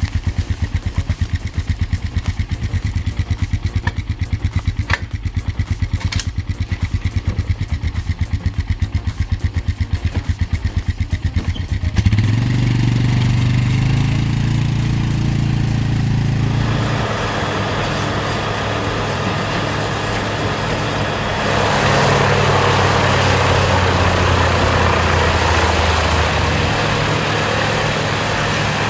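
A machine engine running with an even, rapid low pulse. About twelve seconds in, a louder engine takes over, and from about seventeen seconds a steady rushing, grinding noise joins it and grows louder a few seconds later.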